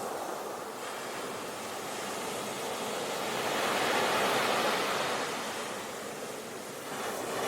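Sea waves surging and washing in, one swell building to a peak and drawing back, then the next starting to rise near the end.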